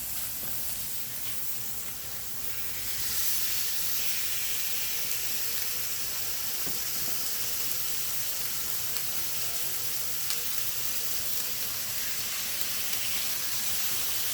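Marinated chicken breasts sizzling on a hot grill: a steady hiss that gets louder about three seconds in.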